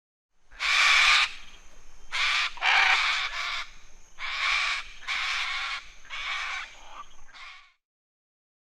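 Macaw squawking: a run of about eight harsh, raspy screeches, some run close together, that stop about a second before the end.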